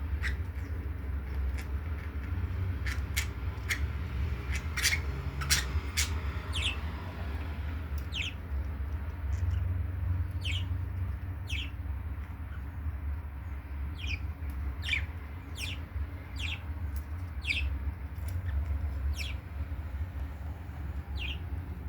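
Budgerigars calling: short, sharp downward-sweeping chirps, repeated irregularly, over a steady low rumble.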